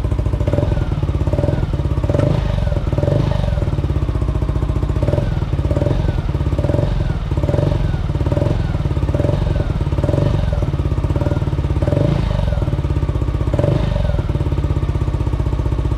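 Yamaha Aerox's 155 cc single-cylinder scooter engine idling steadily through a newly fitted Villan SR1 standard-racing exhaust, with a faint regular pulsing about once a second. The owner suspects a leak at the header joint, from a non-original gasket.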